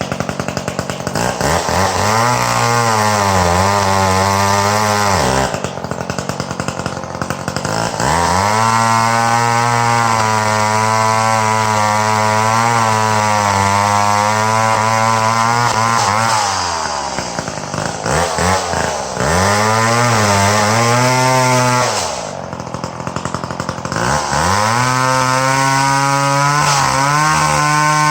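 Two-stroke chainsaw cutting dead ash: the engine revs up and holds a steady high pitch under load for several seconds at a time, four times, dropping back toward idle between cuts, with a few quick throttle blips around the middle.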